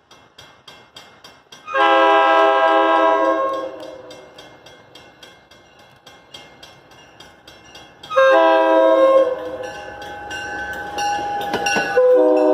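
Locomotive multi-chime air horn sounding a chord in long blasts: one of about two seconds, another about six seconds later, and a third starting near the end. Regular clicking, about three times a second, runs underneath.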